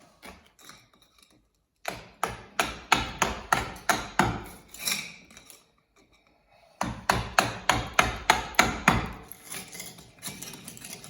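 Hammer blows in two runs of quick, sharp strikes, about three a second: the first starts about two seconds in, the second about seven seconds in, followed by lighter knocks.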